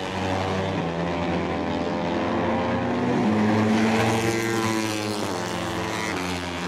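Moto3 race bikes' 250 cc single-cylinder four-stroke engines revving hard, their pitch stepping and gliding up and down through gear changes.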